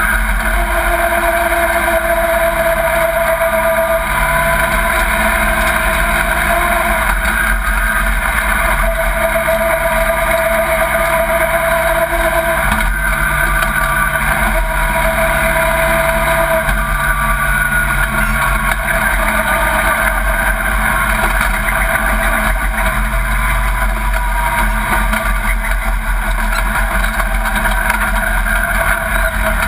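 Pro Truck stock-car racing truck's engine running steadily, heard from inside the cab over constant road and wind noise, its pitch drifting gently up and down.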